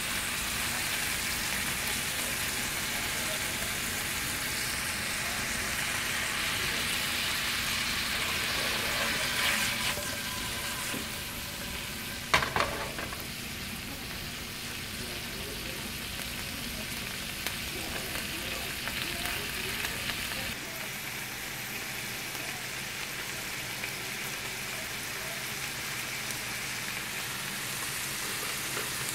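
Shrimp sizzling in oil in a nonstick skillet, giving way to bite-size chicken pieces frying in a pan, a steady frying hiss. One sharp knock stands out about twelve seconds in.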